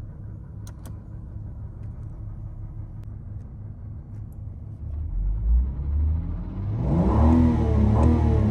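Ford BF Falcon XR6's inline-six idling with a steady low rumble. About five seconds in it becomes louder and deeper. Music comes in near the end.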